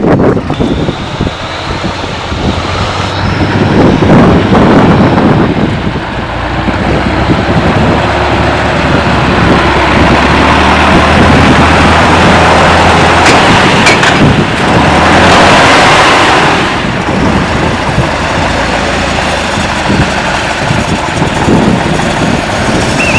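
Tatra 148 truck's air-cooled V8 diesel engine running hard off-road, its loudness swelling and easing as the throttle is opened and backed off.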